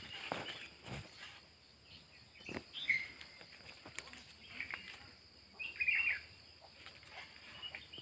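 Wild birds chirping in short, scattered calls, with a cluster of chirps a little past the middle, over faint background hiss. A few soft knocks in the first couple of seconds.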